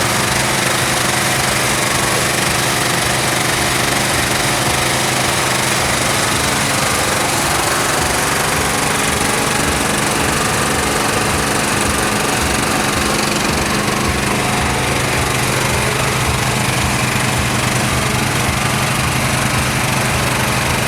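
Small engine running steadily: a continuous drone with a low hum that holds at one pitch throughout.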